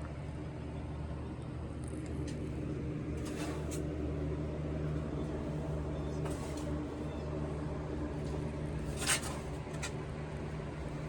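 A steady low mechanical hum, with a few faint brief knocks or rustles spread through it.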